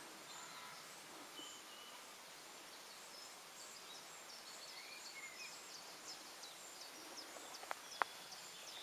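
Faint outdoor ambience with small birds chirping thinly and high from about halfway in, and a couple of sharp clicks near the end.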